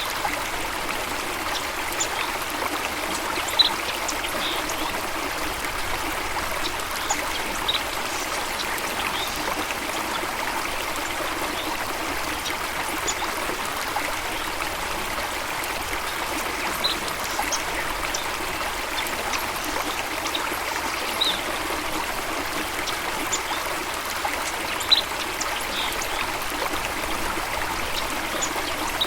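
Steady rush of running stream water, with a few brief high chirps of birds scattered through it.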